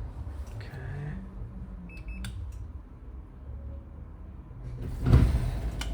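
The truck's onboard generator starting from its inside control panel: a short electronic beep about two seconds in, then a sudden loud surge about five seconds in as the generator catches, settling into a steady low hum.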